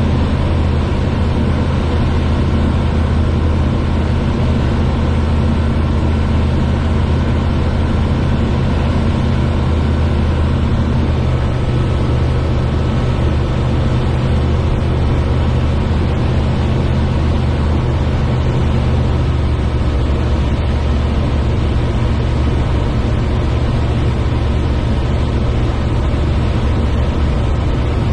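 Small airplane's engine and propeller droning steadily in flight. The tone shifts slightly about two-thirds of the way in.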